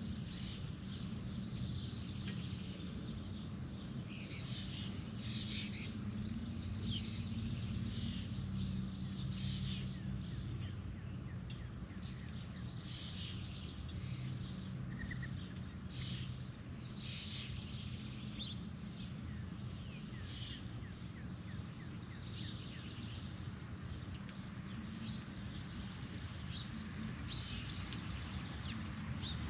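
Backyard birds calling, many short chirps and calls every second or so, over a steady low hum.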